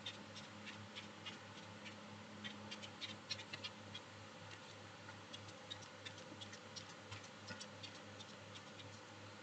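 Faint, irregular crinkling ticks of folded paper as an origami flapping bird's wings are worked by pulling its tail, busiest in the first four seconds and sparser after, over a low steady hum.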